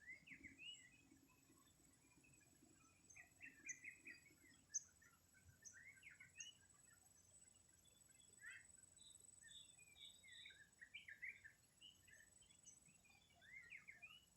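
Several small birds chirping faintly in quick, irregular clusters of short high notes, over a steady thin high-pitched tone.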